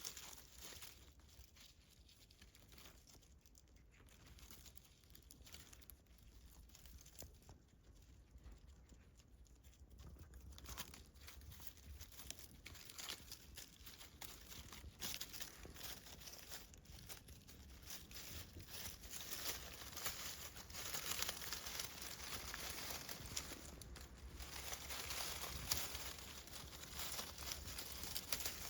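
Irregular rustling and crinkling with many small crackles, getting busier about ten seconds in and louder near the end.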